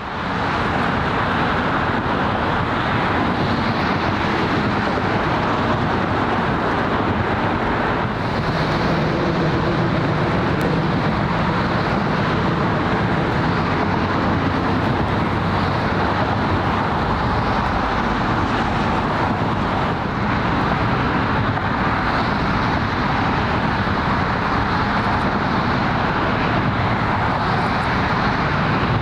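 Steady outdoor waterfront ambience: a constant rumble of traffic and engines, without a break.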